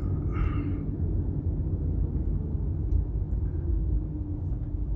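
Steady low rumble of a car driving on the road, heard from inside the cabin: engine hum and tyre noise.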